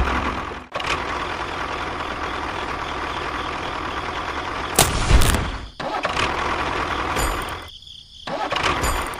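Small engine of a DIY mini tractor cultivator running steadily, louder for a moment around the middle and cutting off abruptly a few times.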